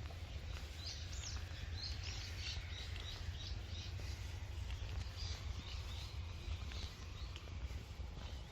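A small bird calling, a quick run of high chirping notes starting about a second in and lasting a couple of seconds, with a few more notes a little later, over a steady low rumble.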